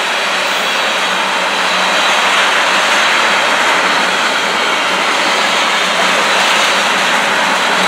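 Steady rolling noise of a freight train of tank cars passing close by, steel wheels running on the rails, even and loud with no distinct clicks.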